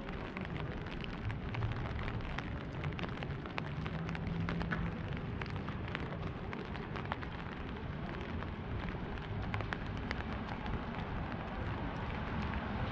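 Rain falling on a wet city street, a steady hiss with many small, irregular raindrop ticks close by and a low hum underneath.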